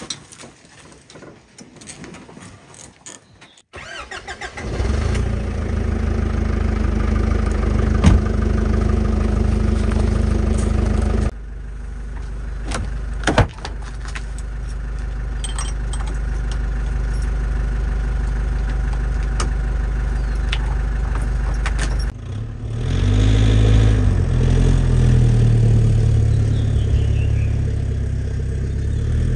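A few light knocks and clatter, then an SUV engine running steadily; near the end the engine note grows louder and its pitch shifts up and down.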